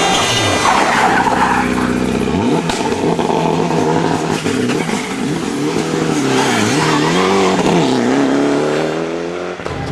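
Race car engine revving hard, its pitch climbing and dropping again and again as the driver lifts and changes gear. Near the end it makes one long rising pull that cuts off abruptly.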